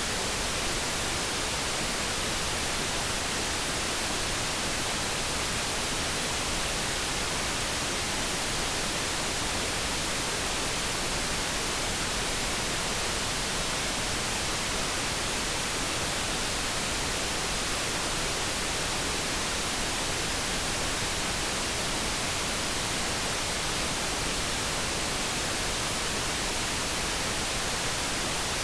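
Steady generated light brown noise: an even hiss with no change in level and no distinct tones or events.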